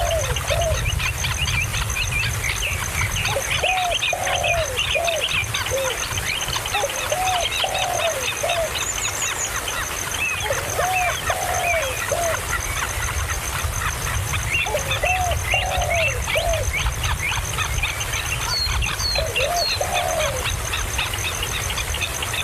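Birds calling: quick high chirping, with a lower call of two to four arched, hooting notes repeating about every four seconds. A thin, steady high tone and a low rumble sit underneath.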